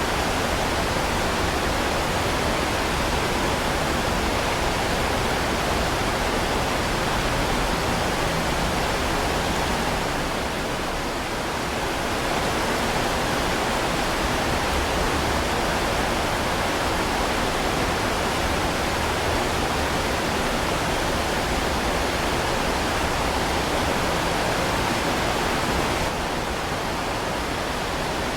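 Heavy rain pouring steadily as a dense, even hiss with no single drops standing out. It eases slightly for a moment about ten seconds in, and again near the end.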